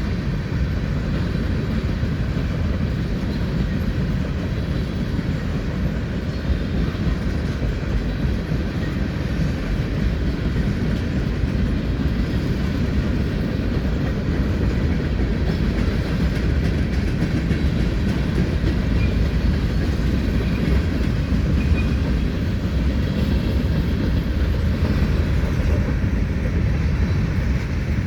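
Heavy Norfolk Southern freight train rolling past, a steady rumble of cars on the rails with some clickety-clack.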